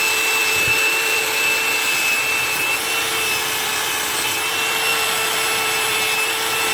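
Buffing machine running steadily, a polishing wheel rubbing against a motorcycle engine side cover: a constant hum and whine under a rubbing hiss.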